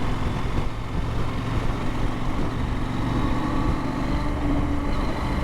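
Motorcycle engine running steadily while riding at an even speed, with wind and road noise and no change in revs.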